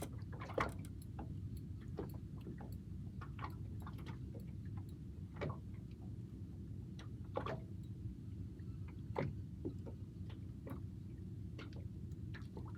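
Fishing reel being wound in with a hooked fish on the line: light clicks and ticks at irregular intervals over a steady low rumble.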